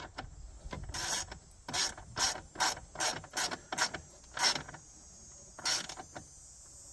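Hand ratchet wrench clicking through a series of short strokes, about half a second apart, as a bolt on the air inlet tube's bracket is snugged up.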